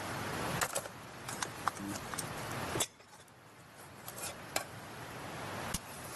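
Steady rush of stream water with scattered sharp clicks and light clinks. The sound drops away abruptly about three seconds in and changes again near the end.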